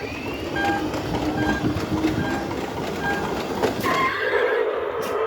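Motorized Road Rippers toy trucks running: their small electric motors whir as they roll across the floor, with a short beep repeating about every three-quarters of a second.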